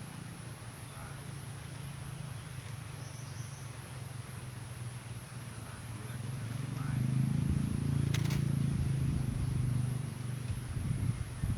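Steady high-pitched insect chirring over a low rumble, which swells louder for a few seconds past the middle. A single sharp click comes about eight seconds in.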